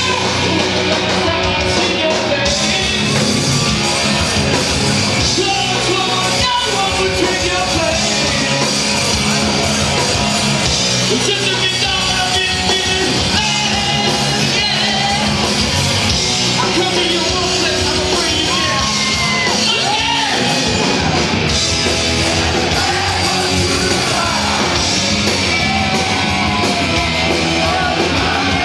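Live hard rock band playing loudly, with distorted guitars and drums under a singer belting and yelling the vocal line, heard in a crowded club room.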